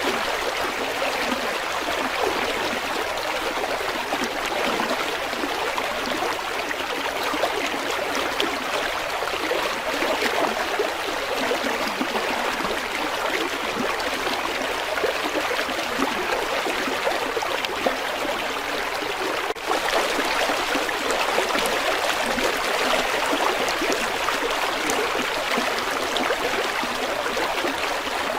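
Steady rush of a flowing river, with a momentary dip about twenty seconds in.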